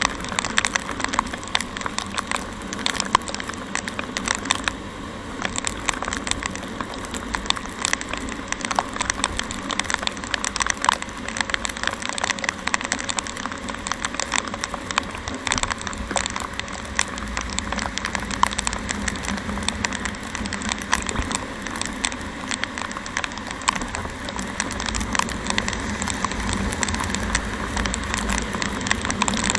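Heavy rain crackling on the microphone during a motorcycle ride: a dense, irregular patter of drops over the steady rumble of the engine, road and wind.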